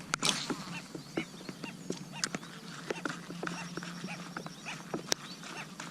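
Light rain falling on water, heard as many scattered, irregular drip plinks, with one louder knock just after the start.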